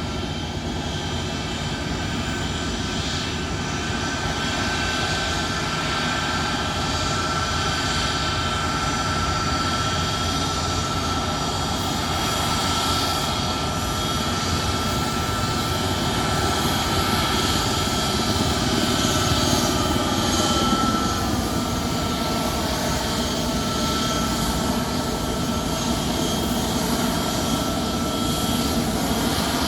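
Boeing C-17 Globemaster III's four turbofan jet engines running, a steady rushing jet noise with a high whine over it. It swells to its loudest about two-thirds of the way through, then the whine drops in pitch as the aircraft goes past.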